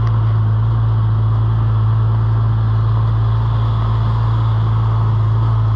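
Motor vehicle engine running with a constant low hum and steady noise, no change in pitch or level.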